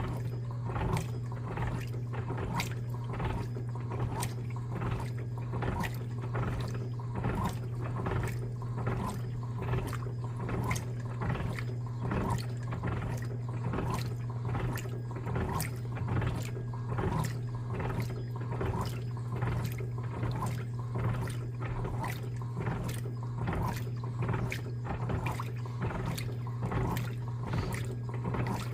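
Electrolux LTA15 top-loading washing machine agitating a load of bed linen: water swishing in a steady rhythm, somewhat under two strokes a second, over the motor's constant low hum.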